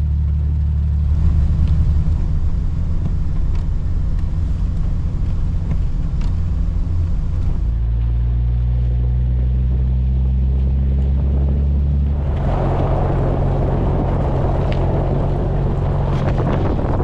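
Off-road vehicle's engine droning steadily while driving a snowy trail, its note shifting in pitch a few times. About twelve seconds in, a louder rushing noise joins it.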